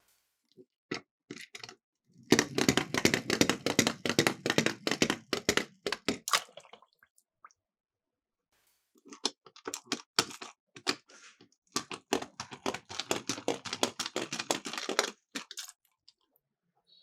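Miniature die-cast toy cars rolling down a sloped track, clattering and rattling: a few separate clicks, then a dense run of clatter lasting about four seconds, a pause of a couple of seconds, and a second run of about six seconds.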